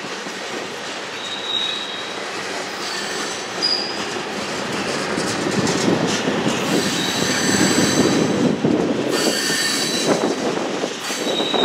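Freight train cars rolling through a curve, the steel wheels squealing in high, on-and-off squeals over the steady rumble of wheels on rail, which grows louder toward the middle.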